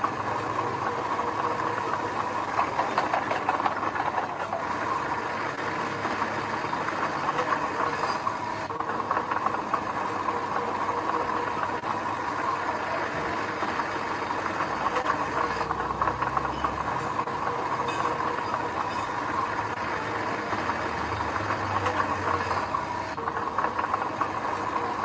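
Diesel engine of earth-moving machinery running steadily, with a dense continuous clatter and a steady whine over it.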